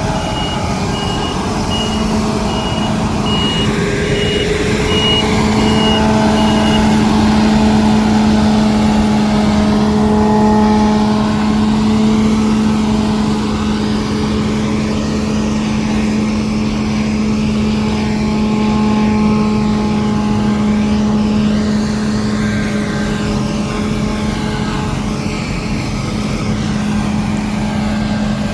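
Heavy harvest machinery running steadily with a strong, even drone. A reversing beeper sounds about twice a second for the first seven seconds, then stops.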